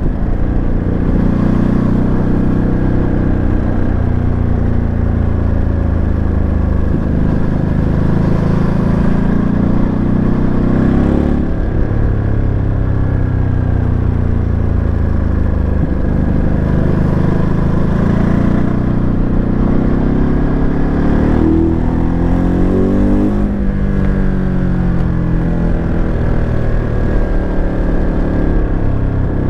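Ducati Monster 937's Testastretta 937 cc L-twin engine under way, accelerating through the gears: its pitch climbs with each pull and drops at each upshift, several times over, with one slower fall in pitch about three-quarters of the way through.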